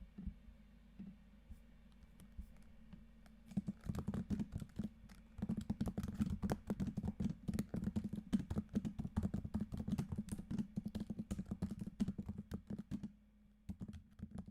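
Computer keyboard being typed on: a few scattered key clicks, then about nine seconds of fast, continuous typing with one short pause, tapering off to a few last keystrokes near the end.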